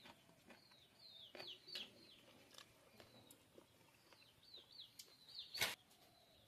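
Faint bird chirping: two runs of short, quick, falling chirps, about a second in and again shortly before the end. Scattered soft clicks, with one sharper click near the end.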